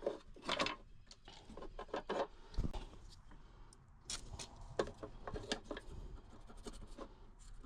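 Quiet, irregular scraping and rubbing with small clicks from a tool working over a circuit board, scrubbing corrosion off the water-damaged RF hub module's board.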